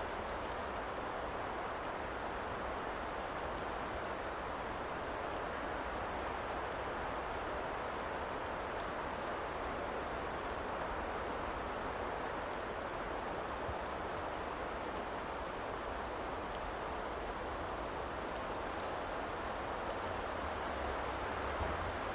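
Steady woodland ambience: an even rushing noise with faint high chirps now and then. A low rumble grows a little louder near the end.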